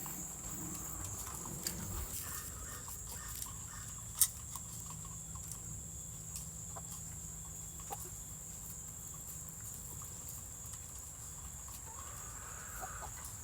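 Chickens clucking faintly now and then over a steady high trill of crickets, with one sharp click about four seconds in.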